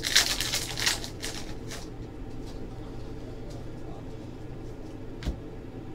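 Basketball trading cards being flipped through and handled: a quick run of papery rustles and slaps in the first couple of seconds, then quieter handling with one sharp tap about five seconds in, over a faint steady hum.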